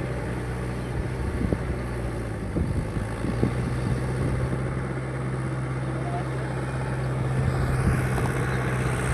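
Mahindra 585 tractor's diesel engine running steadily.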